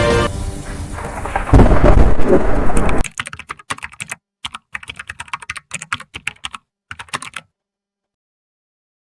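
Rain hiss and a loud, low rumble of thunder that cuts off abruptly about three seconds in. Then about four seconds of rapid, uneven computer keyboard typing clicks.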